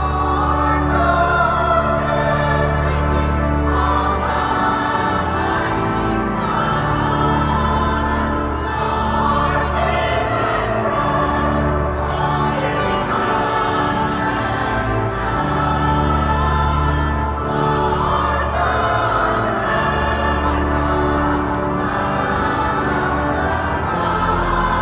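Choir singing in parts over sustained organ accompaniment, with long low bass notes that change every few seconds.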